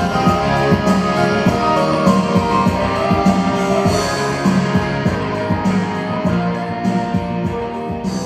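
Karaoke backing track of a rock-style pop song: an instrumental passage led by electric guitar over bass and drums, slowly getting quieter over the last few seconds.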